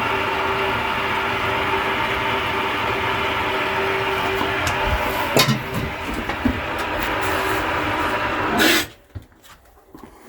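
Water rushing at full force through the supply plumbing into a tank water heater during a power flush, a steady hiss with a held tone in it, to stir up sediment in the tank. A knock comes about five seconds in, and the flow cuts off abruptly near the end as the water is shut off.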